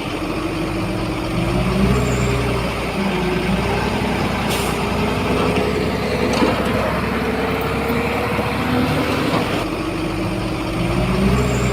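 Heavy diesel engine of earthmoving machinery running under load, its pitch rising and falling as it revs, with a couple of brief sharp clanks or hisses in the middle.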